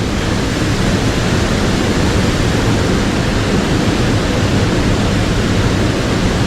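Steady rushing of a mountain stream's water flowing over rocks.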